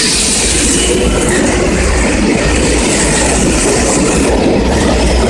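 Electric commuter train running past close alongside the platform: a loud, steady rumble and rush of steel wheels on the rails.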